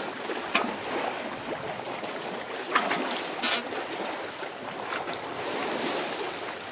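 Sea water washing along a sailing yacht's hull as it moves slowly under sail in a light breeze, with a few short, sharp splashes.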